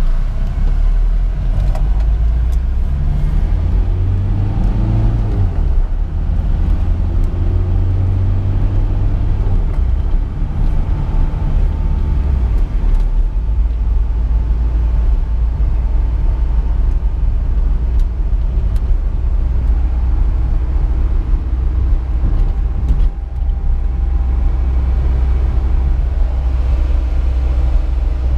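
1998 VW Jetta TDI's turbo-diesel engine and road noise heard from inside the cabin while driving. The engine note climbs and drops back a couple of times over the first twelve seconds or so as the manual gearbox is taken up through the gears, then runs steadily at cruise.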